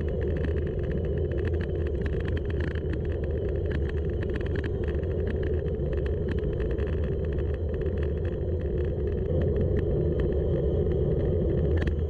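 Steady wind and road rumble of travelling fast downhill, with fine ticking throughout; it gets a little louder about nine seconds in.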